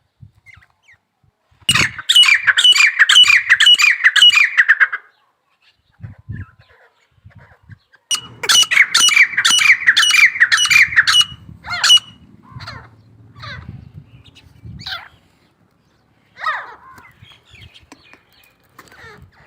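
Grey francolins calling: two bouts of fast, harsh repeated notes, each about three seconds long, followed by a few scattered single calls.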